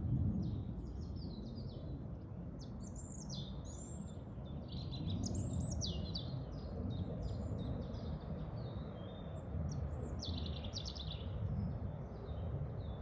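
Forest songbirds chirping and singing, many short, quick, high calls overlapping one another, over a steady low rumble of wind.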